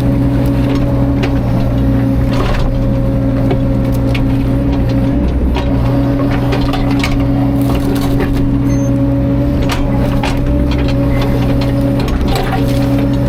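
Diesel engine of a CAT 305.5 mini excavator running steadily, with many sharp cracks and knocks of wood being crushed and snapped.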